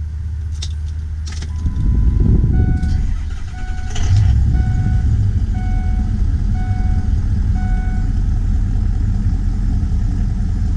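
2004 Ford F-250 Super Duty turbo diesel engine running, growing louder about two seconds in and again about four seconds in, with a few clicks near the start. A cab warning chime beeps about once a second from about three to eight seconds in.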